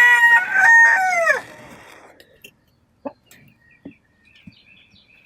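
Rooster crowing once: a loud call of about a second and a half, held and then dropping in pitch at the end. Afterwards only faint clicks and faint high chirps.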